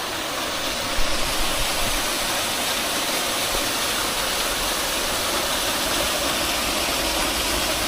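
Steady rushing of a small waterfall, an even wash of water noise that swells slightly about a second in and then holds.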